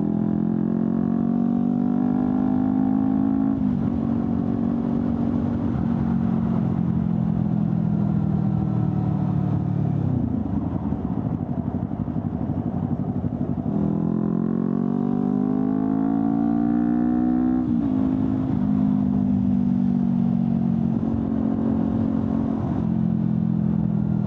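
Honda CBR250RR's parallel-twin engine through an Akrapovic slip-on exhaust, accelerating hard. The pitch climbs and drops sharply at each upshift, about four seconds in and again near the end. Around the middle the throttle is closed and the pitch falls, then it pulls up again.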